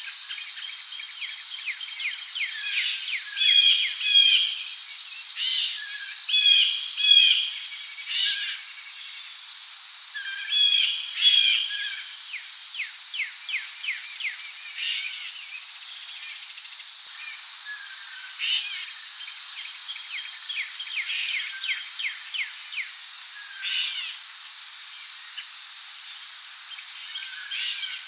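Rainforest ambience: a steady high insect drone with crickets trilling and repeated bird calls and chirps over it, the calls busiest in the first half.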